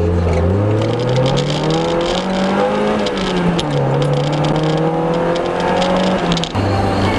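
Mazda MX-5's four-cylinder engine accelerating hard, heard from inside the car: its pitch climbs through the gears, drops at each of about three upshifts, and settles to a steady cruise near the end.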